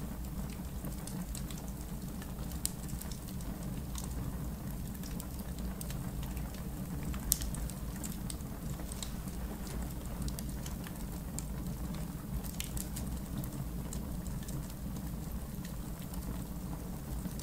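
Campfire crackling: a steady low rumble of burning with scattered sharp pops and snaps, the loudest about seven seconds in.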